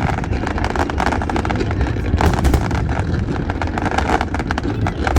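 Fireworks barrage: a dense run of rapid crackles and pops over a continuous low rumble of bursts.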